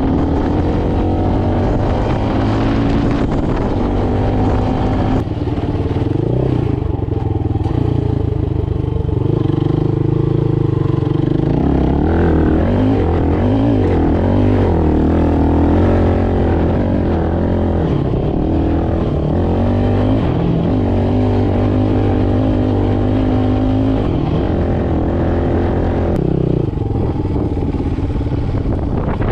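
Motoland Legend motorcycle's engine running while riding, its pitch rising and falling with the throttle and jumping suddenly a few times.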